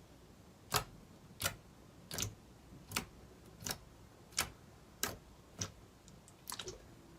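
A series of sharp clicks or pops, evenly spaced about one every three quarters of a second, eight in all, then a quick flurry of several clicks near the end.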